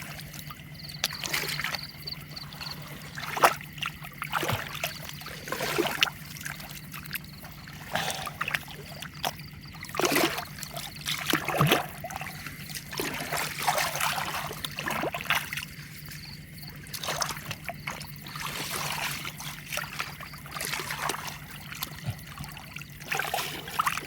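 Shallow canal water trickling and sloshing, with irregular splashes from wading and hands working in the water while catching fish. A steady low hum runs underneath.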